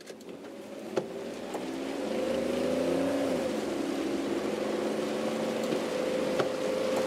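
A vehicle engine humming steadily under a dense rushing noise that swells over the first two seconds, its pitch dipping slightly about three seconds in, with a couple of sharp clicks.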